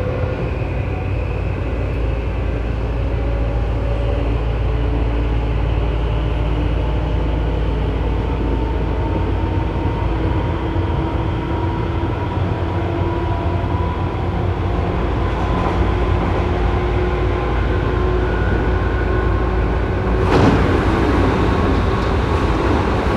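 Tobu 9000 series electric train running with its armature chopper whining: several thin tones that rise slowly in pitch as the train gathers speed, over a steady low rumble of wheels and motors. This car's chopper is the one singled out for its abnormal noise. A sudden loud rush of noise comes in about twenty seconds in.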